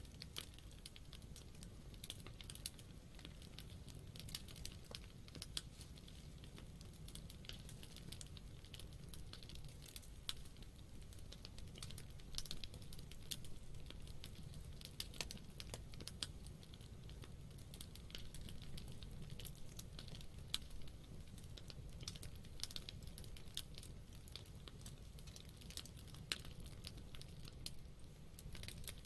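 Campfire crackling: burning wood giving frequent, irregular sharp pops and snaps over a low steady rumble.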